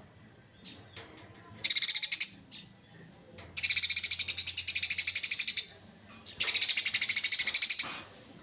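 Eurasian tree sparrow giving its harsh, rapid chattering trill, the aggressive 'fighting' chatter. It comes in three bursts: a short one about two seconds in, then two longer runs of about two seconds each.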